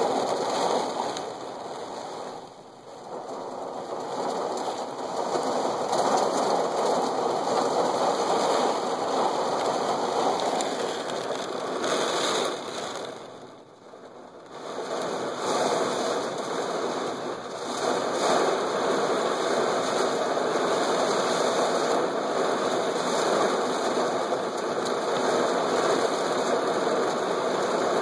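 Heavy thunderstorm rain pouring down in gusty wind, a dense steady hiss that briefly drops twice, once near the start and once about halfway through.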